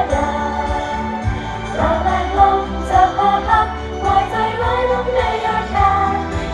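Pop idol song performed live: female voices singing the melody together over a backing track with a pulsing bass beat.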